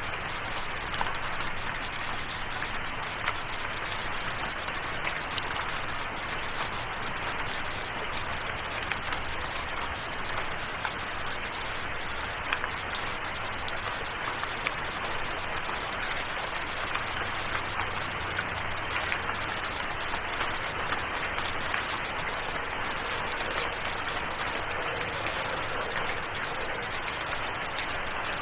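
Steady rain falling, with individual drops ticking sharply on a surface throughout.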